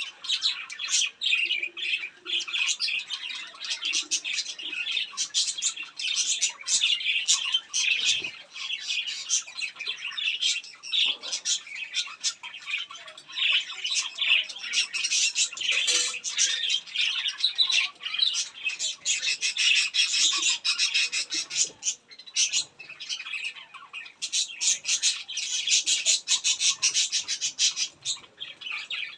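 Birds chattering: a rapid, continuous run of overlapping chirps and squawks with no pause.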